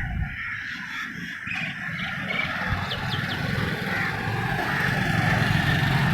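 Steady low rumble of passing motor traffic, growing louder toward the end, with a few short high bird chirps about three seconds in.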